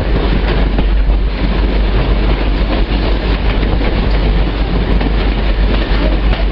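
Passenger train rolling along the track, heard from an open-air car: a loud, steady noise of wheels on the rails.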